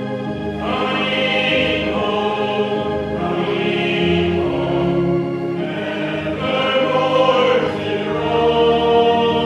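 Church congregation singing a hymn together, with long held notes that change about every second.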